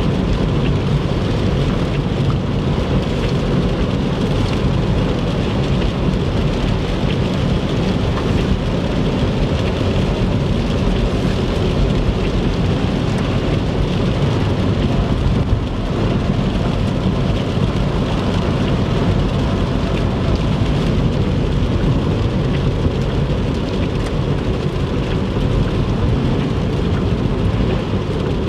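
Car driving on a wet interstate in heavy rain: a steady low rumble of road noise with the hiss of tyres on the wet road and rain on the car.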